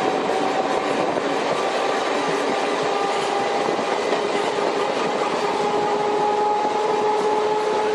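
A train running on its rails: a dense, steady rattle and rush of wheels and cars, with a steady whine that rises slightly in pitch.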